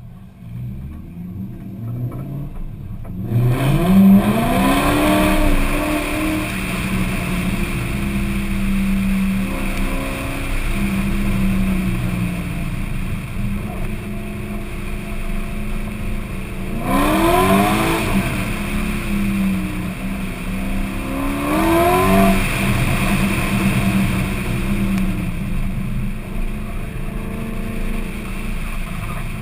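Car engine, heard from the bonnet, pulling away hard about three seconds in with a sharp rise in revs, then running at high revs under a loud rushing hiss. It revs up again twice, around the middle and a few seconds later.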